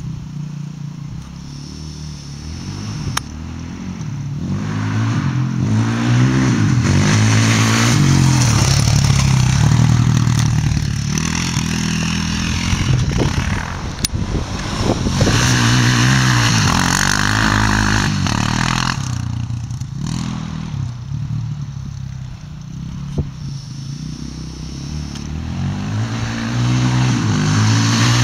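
Modified Yamaha Raptor 660 quad's single-cylinder four-stroke engine running hard. Its pitch rises and falls over and over, and it grows louder and fades several times.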